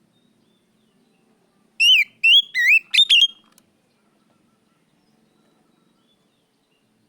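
Oriental magpie-robin (kacer) singing a short burst of loud whistled notes about two seconds in: three looping, rising-and-falling phrases followed by a few sharp notes, all over in under two seconds.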